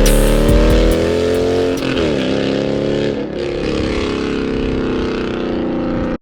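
A car engine accelerating hard through the gears: its pitch climbs, drops back at a shift about two seconds in and climbs again, then eases off and fades lower.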